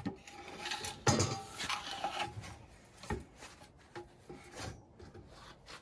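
Wooden roller logs being handled under a heavy machine: a sharp wooden knock about a second in, then scraping and a few lighter knocks.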